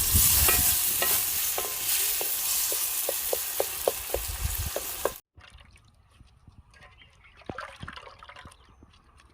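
Food sizzling loudly in hot oil while being stirred, a utensil striking the pot about three times a second. The sizzle cuts off suddenly about five seconds in, leaving a much quieter stretch with scattered clicks and knocks.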